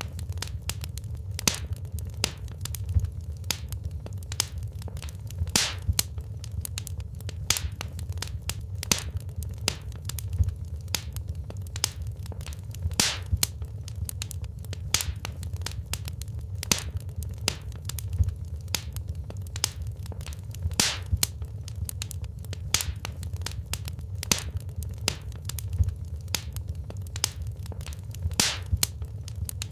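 Wood fire crackling in a fireplace: frequent sharp irregular pops and snaps over a steady low rumble of the flames.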